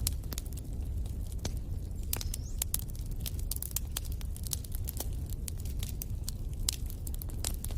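Wood fire in a fireplace crackling, with irregular sharp pops over a low, steady rumble of flame. A brief rising whistle comes about two seconds in.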